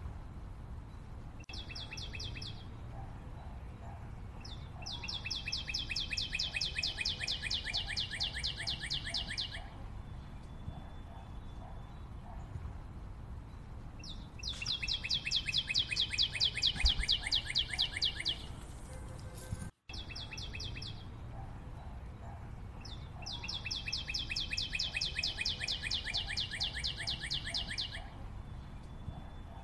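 Bird song laid in as background ambience: a bird sings long, rapid trills several seconds each, dropping slightly in pitch, about four times, with a brief cut-out near the middle.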